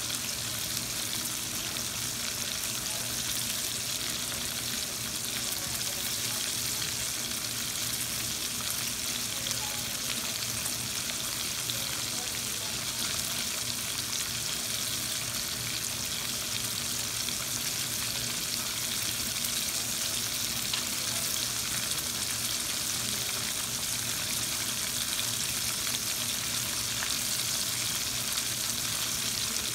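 Breaded chicken breasts shallow-frying in hot oil in a pan: a steady sizzle with fine crackling throughout.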